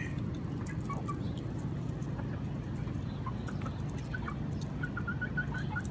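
Chickens clucking softly in short, scattered notes, with a quick run of clucks near the end, over a steady low rumble.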